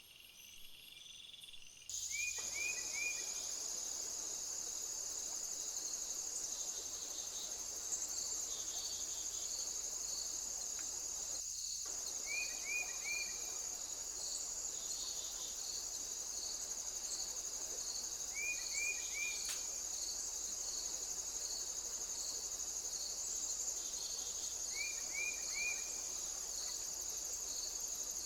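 A steady, high-pitched chorus of stridulating insects with a pulsing rhythm running through it, starting about two seconds in. A group of three short falling chirps repeats about every six seconds.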